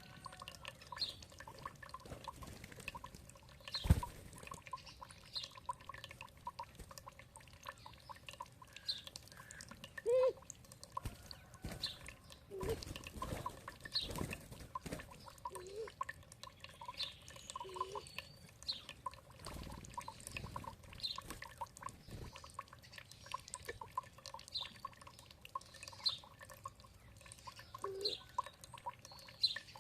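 Birds chirping in short high calls about once a second over dripping, trickling water, with a few short lower calls now and then.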